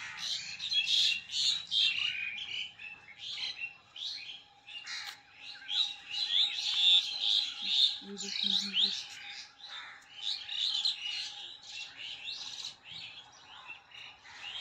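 Many small birds chirping together in a dense, busy chorus of short overlapping high calls.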